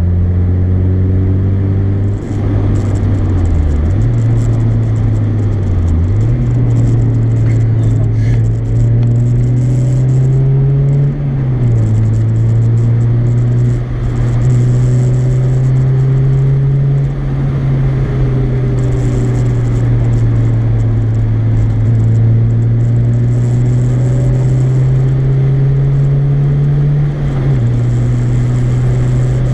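Mazda MX-5's 1.8-litre four-cylinder engine with an aftermarket exhaust, pretty loud, pulling through the gears. Its note climbs steadily and drops sharply at each gear change, several times over.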